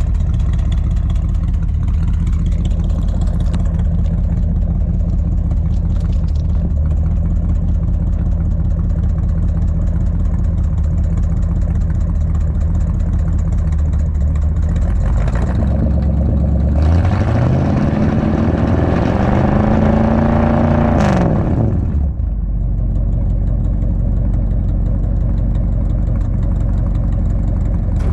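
1959 Edsel Ranger engine idling steadily through its dual exhaust with old Cherry Bomb mufflers, just run up after a new driver's-side exhaust manifold was fitted. About two-thirds of the way through it is revved, the pitch rising for several seconds, then drops back to idle.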